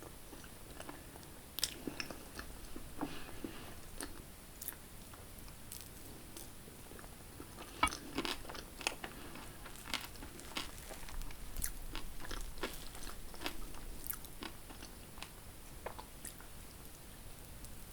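Close-miked biting and chewing of gateaux crepes, with irregular crisp crunches and clicks that cluster densest about eight to eleven seconds in.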